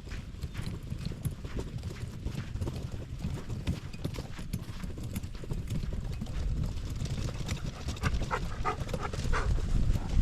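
Footsteps walking at a steady pace on soft ground, with low rumbling wind or handling noise on the microphone. A few short squeaky notes come near the end.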